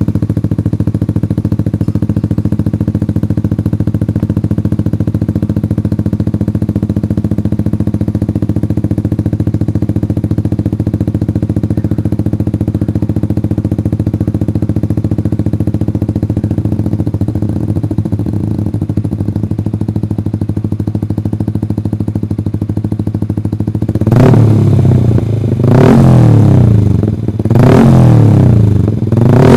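Motorcycle engine through an SC Project aftermarket muffler idling steadily, then revved up and let fall back three times near the end.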